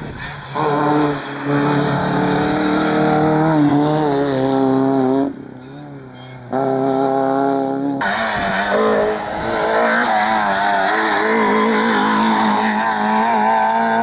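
Rally car engine at high revs, pitch climbing and dropping as it works through the gears, with a short lift off the throttle a little past five seconds in and a sudden change in the engine note at about eight seconds.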